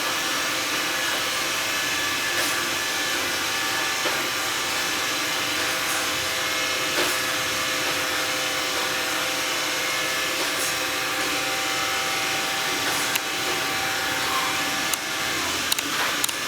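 Xiaomi Mi Robot Vacuum running, a steady whir of its suction fan and brushes with a steady motor whine, as it feels its way along the wall edge. A few light clicks come near the end.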